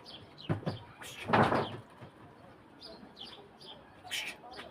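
Small birds giving short, repeated falling chirps, broken about a second in by a loud noisy burst, with a couple of dull thumps just before it and a brief hiss near the end.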